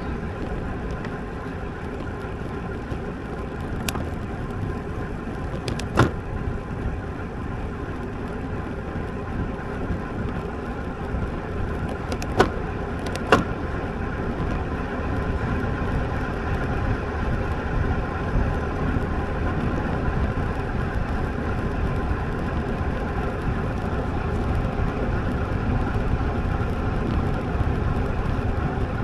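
Steady rushing wind and tyre noise from a road bike ride, growing slightly louder in the second half, with three sharp clicks: one about six seconds in and two close together a little past the middle.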